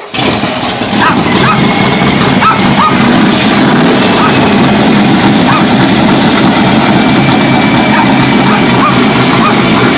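482-cubic-inch big-block Chevy V8 of a 1968 pulling truck running loud and steady; it cuts in suddenly at the start and holds an even level with no revving.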